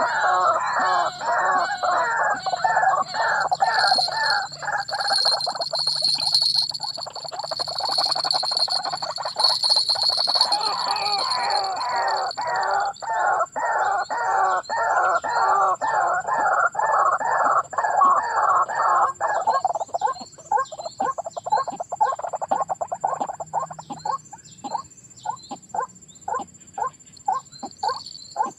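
White-breasted waterhen calling: a long, fast run of repeated croaking notes, about three a second. About two-thirds of the way in the notes turn fainter and more widely spaced. A high buzz sits above the calls for a few seconds near the start, and a thin high steady tone runs behind them.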